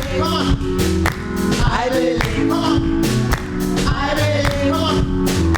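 Live gospel music: a choir singing over bass, keyboard and a steady drum beat.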